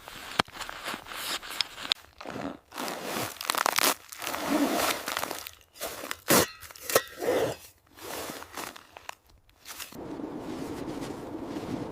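Irregular crunching of packed snow. Near the end the crunching stops and a steady rushing noise takes over.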